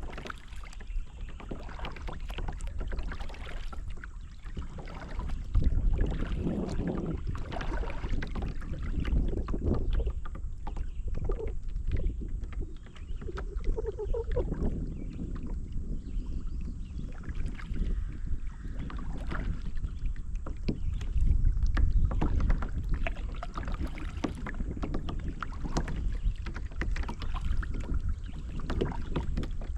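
Kayak paddling on a river: the paddle dips and splashes at irregular intervals, over a steady low rumble of wind on the microphone.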